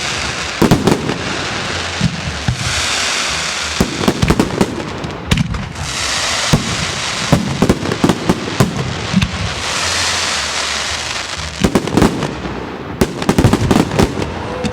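Fireworks display: aerial shells going off in quick succession, with many sharp bangs, and stretches of hissing crackle every few seconds between them.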